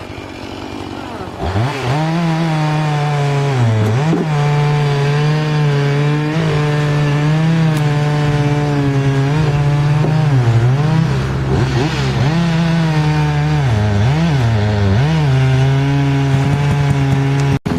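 Chainsaw running at high revs and cutting wood, its pitch dipping repeatedly as it comes under load and recovering between dips. It starts up loudly about a second and a half in.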